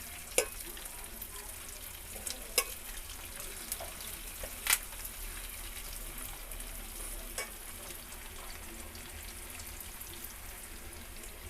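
Chicken pieces deep-frying in hot oil in a kadai on a low flame: a steady sizzle, with a few short sharp clicks scattered through it.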